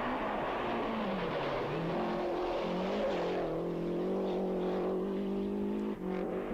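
Rally car engine running hard. Its pitch drops over the first second and a half, climbs again as the car accelerates, then holds steady at high revs.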